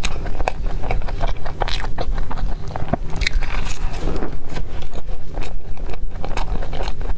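A person chewing cream puffs: many quick wet mouth clicks and smacks, with a fresh bite of a puff about four seconds in.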